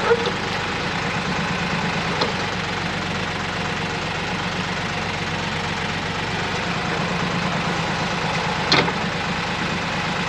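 Ford 1710 tractor's three-cylinder diesel engine idling steadily, with a few short sharp clicks: one right at the start, one about two seconds in, and a louder one near the end.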